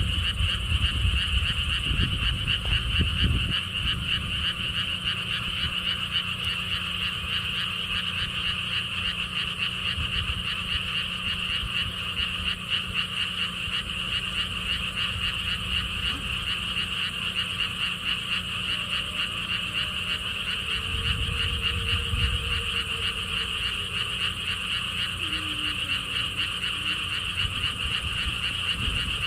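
Dense chorus of many frogs calling together from a pond, a steady high, rapidly pulsing trill. Gusts of wind rumble on the microphone at the start and again about two-thirds of the way in.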